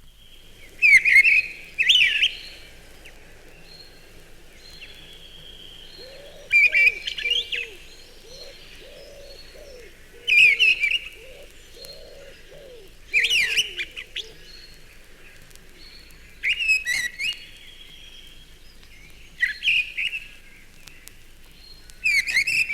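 Mistle thrush singing its full territorial song: short, loud, fluting phrases repeated every few seconds with pauses between.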